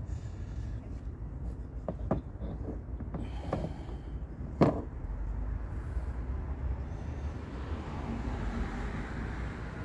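A few sharp knocks over a steady low rumble, the loudest knock about four and a half seconds in.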